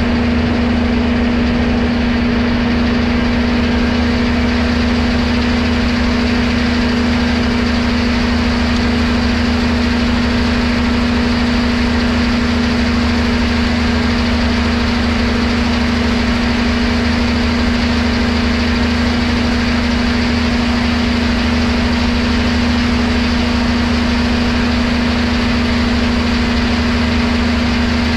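Machinery running steadily at an even speed, a constant hum over a broad mechanical noise with no change in pitch or load.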